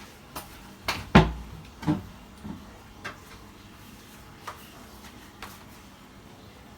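Knocks and clunks of cookware being handled in a kitchen: three close together about a second in, the loudest a dull thud, then a few lighter scattered taps.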